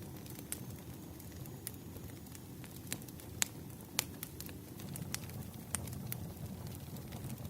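Wood fire burning with a low steady rush of flame and scattered crackles and pops, the two sharpest about three and a half and four seconds in. A faint thin high whistle runs through the first two seconds.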